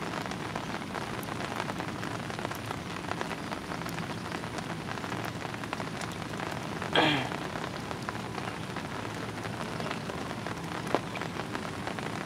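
Heavy rain falling steadily, with the patter of single drops. About seven seconds in, a short sound sweeps quickly downward in pitch.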